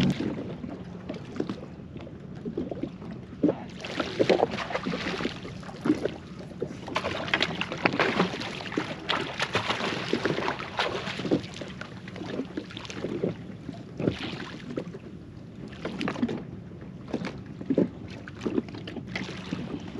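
Sea water slapping and splashing irregularly against the hull of a jet ski drifting on the ocean.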